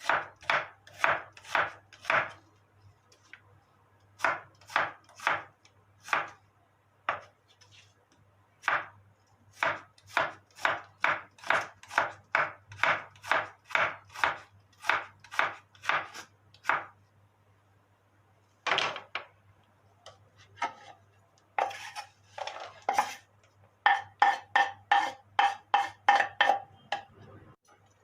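Knife chopping on a cutting board: runs of sharp, evenly spaced strokes, about three a second, broken by short pauses. Near the end comes a quicker run of ringing strikes, a utensil knocking against a dish.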